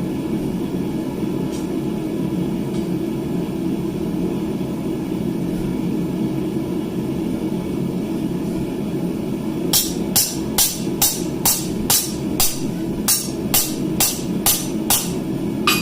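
A forge runs with a steady low roar; about ten seconds in a hammer starts striking hot steel on the anvil in an even run of about a dozen ringing blows, two to three a second.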